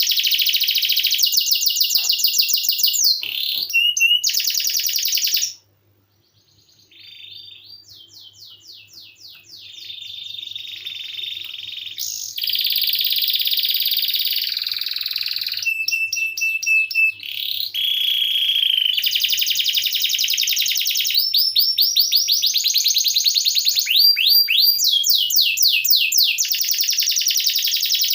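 Domestic canary singing long, rapid rolling trills of high repeated notes, with changing phrases. The song breaks off abruptly about five and a half seconds in, returns quieter, and is loud again from about twelve seconds on.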